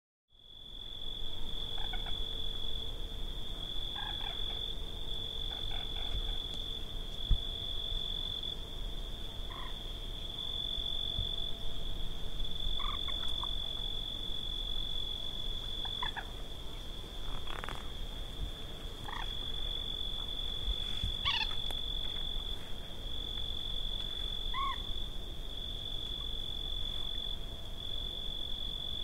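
Wetland natural ambience: a steady, unbroken high-pitched insect trill, with short animal calls now and then and a low rumble of wind or distant noise underneath.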